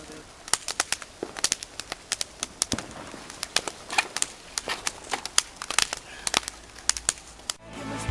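Fireworks crackling: many sharp, irregular pops, several a second, which cut off suddenly near the end.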